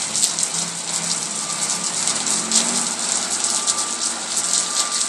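Water pouring out of a flooded block of flats and splashing down, a steady heavy rush with constant splashing. Onlookers take it for mains water backing up.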